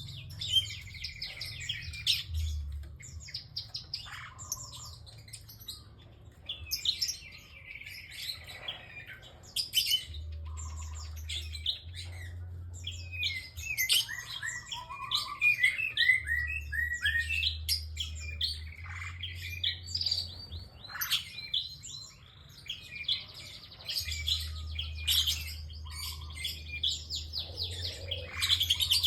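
A prinia (prenjak) singing in repeated bursts of rapid, high chirps and trills throughout.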